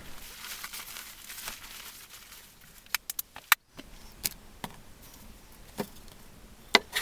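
Soft rustling and crinkling, then a scattered series of sharp clicks and snaps, the loudest about halfway through.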